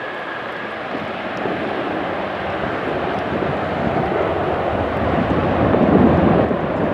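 Jet airliner's engines rushing as it flies past, growing steadily louder to a peak near the end, with a faint high engine whine fading out in the first second.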